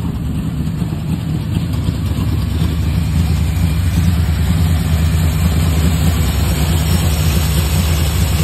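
1970 Dodge Coronet's 383 big-block V8 idling steadily through its factory single exhaust, freshly started after sitting about a year; the owner judges it to be running on only about five or six cylinders.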